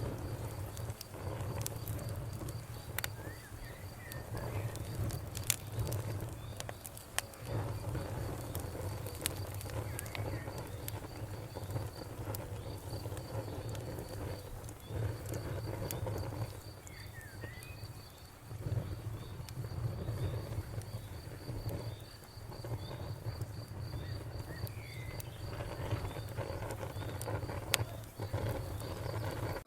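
Wood fire crackling, with scattered sharp pops over a low steady rumble. A cricket chirps in an even, high pulsing trill through most of it.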